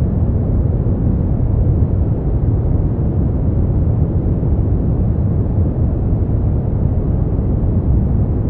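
Steady generated noise for sleep, deep and rumbling rather than hissy, with most of its weight in the low end and little treble. It holds even and unchanging, with no other sound.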